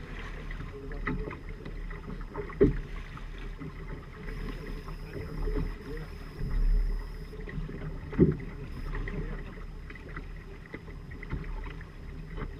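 Sounds aboard a Firefly 26 trimaran under way: a steady rumble of water and wind around the hull, with two sharp knocks, about two and a half seconds in and again about eight seconds in.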